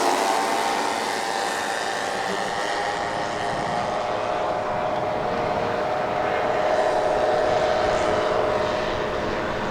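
Large RC scale Avro Lancaster's four Zenoah 38 two-stroke petrol engines droning steadily in flight, a little louder in the second half.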